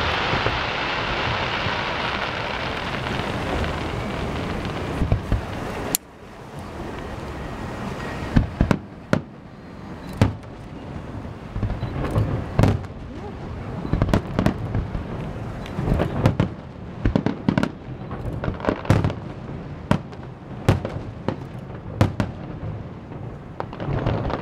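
Aerial fireworks shells bursting: a string of sharp booms at irregular intervals, several in quick succession at times. For the first few seconds a loud, dense hiss fills the sound, and it cuts off suddenly about six seconds in.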